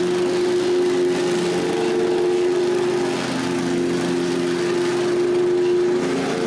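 Plate compactor powered by a 5.5 hp Honda single-cylinder four-stroke engine, running steadily.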